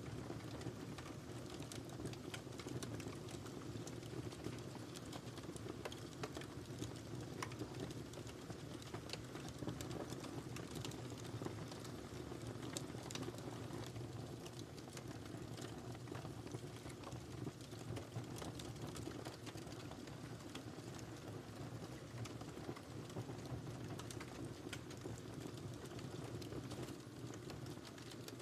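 Wood fire burning in a fireplace, with a steady low rumble and many small crackles and pops throughout.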